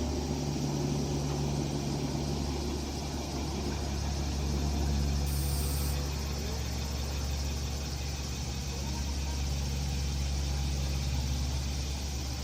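Steady drone of a Cessna 172S Skyhawk SP's four-cylinder piston engine and propeller as the light aircraft flies past, easing off slightly near the end.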